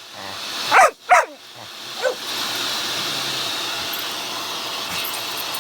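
A puppy barks twice in quick succession, with a shorter yip about two seconds in, then a vacuum cleaner motor runs with a steady whirr.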